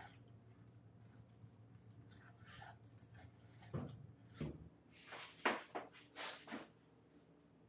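Quiet, scattered light clicks and knocks, about half a dozen short ones clustered in the second half, like parts or tools being handled.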